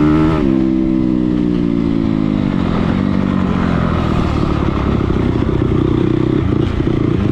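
Dirt bike engine on a motocross track: the revs drop off sharply about half a second in as the throttle is shut, then it runs rougher and the revs build again toward the end.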